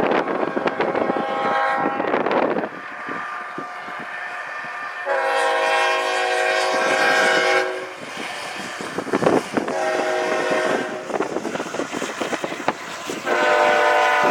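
Locomotive air horn blowing a multi-note chord in four blasts: two long, one shorter, and a fourth that starts near the end. This is the long-long-short-long pattern of a grade-crossing signal. Gusting wind noise on the microphone fills the gaps between blasts.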